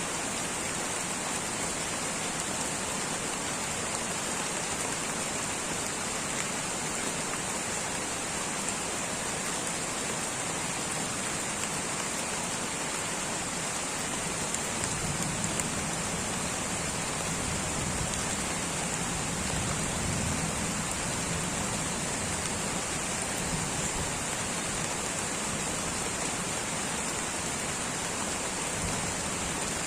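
Steady light rain falling in a tropical rainforest, an even hiss with a bright high edge. A low rumble swells in about halfway through and fades again after some seconds.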